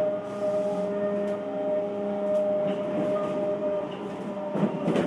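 Interior running sound of an Odakyu 1000 series electric train: steady whine in several tones from the traction motors and gears over wheel rumble. A few sharp rail-joint clacks come near the end.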